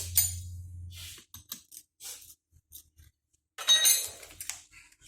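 Small metal parts and tools clinking and knocking as they are handled on a workbench, with a louder rattling clatter about three and a half seconds in. A low hum runs under the first second.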